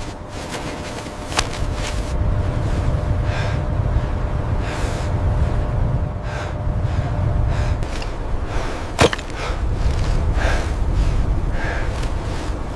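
Steady low wind rumble with soft crunches in snow recurring about once a second, and two sharp knocks, one early and one about nine seconds in.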